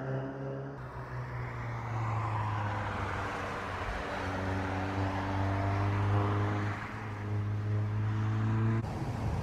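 Mercedes-AMG A45's turbocharged 2.0-litre four-cylinder engine running at fairly steady revs on track, its pitch drifting only slightly, with an abrupt change in the sound near the end.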